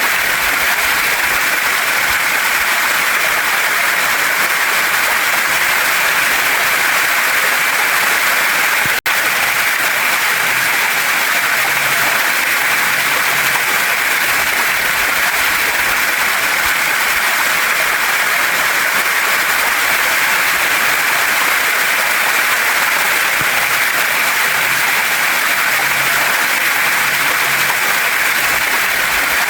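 Waterfall and stream water rushing in a steady, even hiss, with a split-second dropout about nine seconds in.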